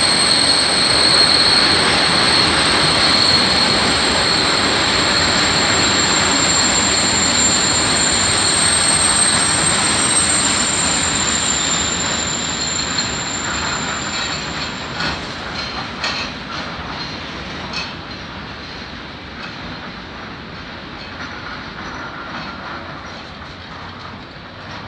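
Freight train wagons rolling past with a steady high-pitched wheel squeal. After about twelve seconds the squeal fades, leaving wheels clacking over rail joints as the train draws away and the sound dies down.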